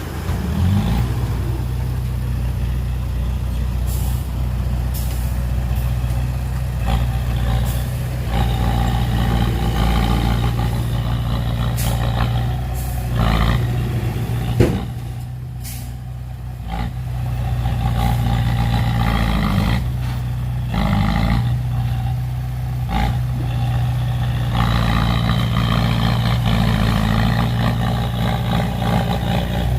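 Heavy diesel engines of dump trucks and a bulldozer running steadily under load, with sharp knocks now and then and a brief drop in engine sound about halfway through.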